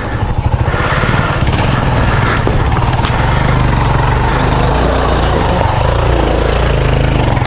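Single-cylinder dual-sport motorcycle engine running at steady, low revs, with no revving up or down.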